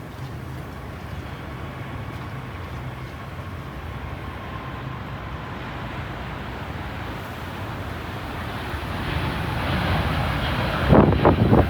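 Jet airliner's engines, a low rumble growing steadily louder as the aircraft approaches, with a few loud gusting surges near the end.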